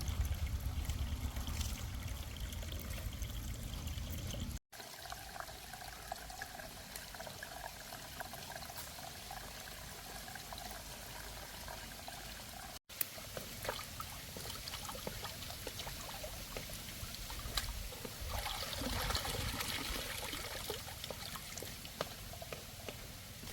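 Water pouring and trickling, broken off abruptly twice.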